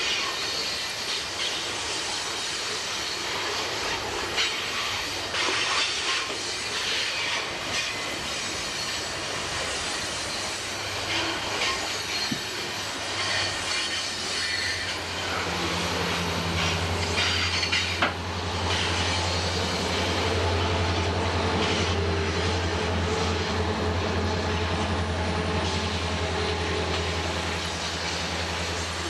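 Norfolk Southern freight train rolling past, its cars clattering over the rail joints with some wheel squeal. A steady low drone sets in about halfway through and holds.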